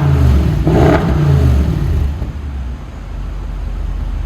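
2014 Audi S8's 4.0 TFSI twin-turbo V8 through a custom valved exhaust, blipped once about a second in, then dropping back to a steady idle.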